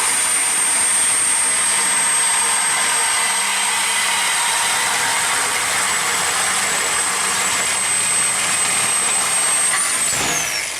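Handheld power cutting tool running under load as it cuts through a steel exhaust pipe: a steady high motor whine over harsh cutting noise. About ten seconds in the trigger is released and the whine winds down.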